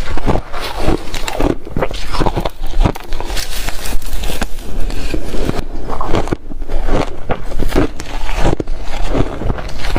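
Re-shaved refrigerator ice being chewed close to the microphone: a run of irregular, loud crunches.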